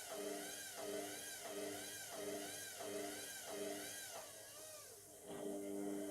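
Indesit MTWC71252WUK washing machine's drum motor turning the drum, its whine rising and falling about three times every two seconds over a steady hum. About four seconds in the drum slows and stops, leaving the steady hum. With only a bath mat inside, the load is hard to balance for the spin.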